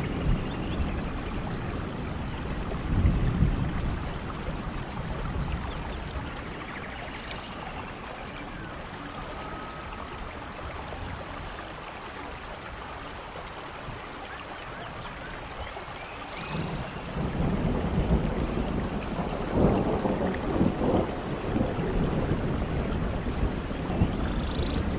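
Steady rain with thunder: a brief low rumble about three seconds in, a quieter stretch of rain alone in the middle, then rolling thunder building about two-thirds of the way through and continuing. Faint high chirps sound now and then over the rain.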